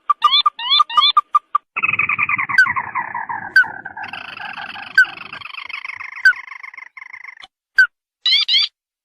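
Ruddy-breasted crake calls played as a hunting lure: a quick series of short upward-sweeping notes, then a falling trill lasting about five seconds, then more short notes near the end. Sharp clicks come about once every second or so through the trill.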